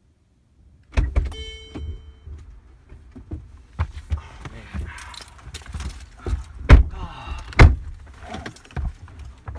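Car handling sounds: a string of clicks and knocks, a short electronic chime about a second in, and two heavy door-like thumps in the second half.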